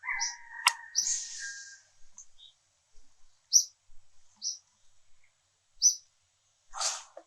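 Bird chirping: short high chirps repeating about once a second, with a sharp click about a second in and a brief rasping burst near the end.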